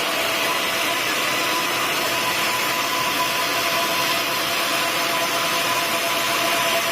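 Sawmill saw running steadily: a constant hiss with a few steady whining tones held through it, without a break.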